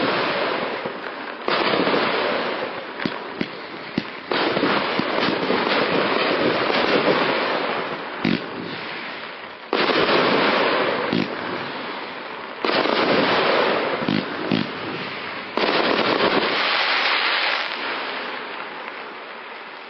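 Consumer firework going off: a loud crackling hiss that surges suddenly every few seconds and fades between surges, with scattered sharp pops, dying away near the end.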